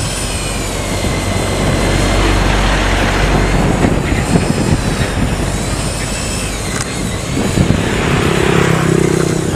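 Steady machinery noise with a deep rumble and a high, slowly wavering whine; a lower pitched hum joins near the end.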